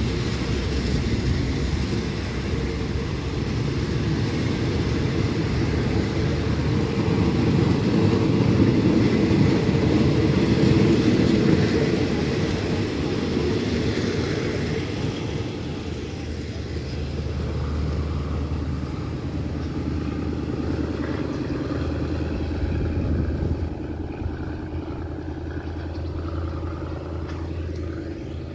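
Passenger train pulling out of the station, its coaches rumbling along the rails, loudest about ten seconds in. After that it eases to a steady low hum.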